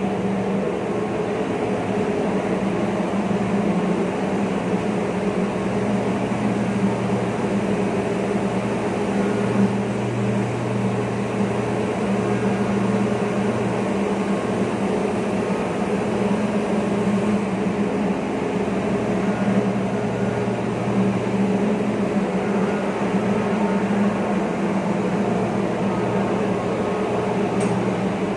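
Engine room machinery of a very large crude carrier running, a loud steady din with a constant low hum.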